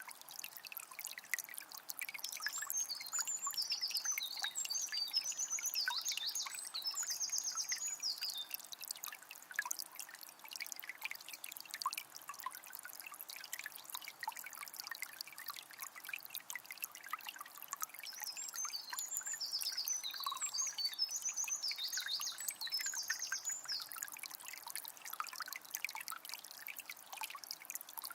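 Water of a small spring trickling and splashing steadily. A bird sings a high-pitched song twice, about three seconds in and again past the middle, each bout lasting about five seconds.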